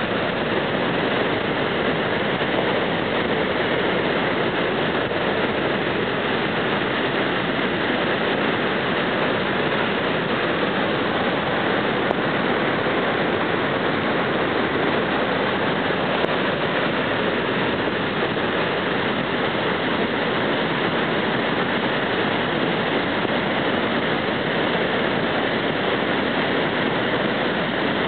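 Floodwater rushing past, a loud, steady, unbroken noise with no let-up.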